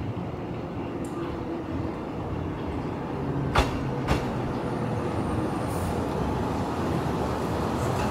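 Kintetsu Minami Osaka Line electric train approaching, its rumble growing steadily louder, with two sharp clacks about half a second apart near the middle.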